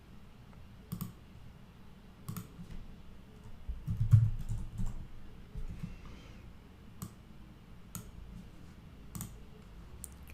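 Scattered single clicks of a computer mouse and keyboard, about eight of them spread unevenly, with a low dull thump about four seconds in.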